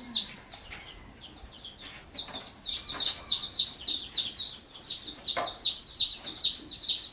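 Chicks peeping: a rapid run of short, high, falling peeps, about four to five a second, that pauses briefly near the start and then runs on.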